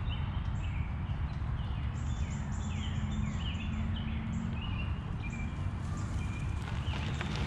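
Songbirds singing: rapid series of short, curved, descending chirps and high notes, busiest through the middle. Under them is a steady low rumble from the moving bicycle.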